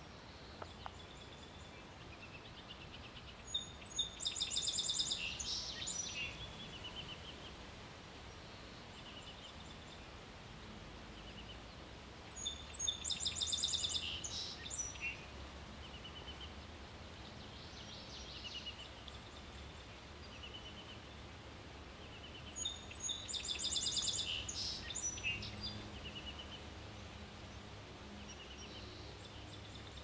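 A bird calling three times, each a high, rapid chattering trill of about two seconds, roughly ten seconds apart.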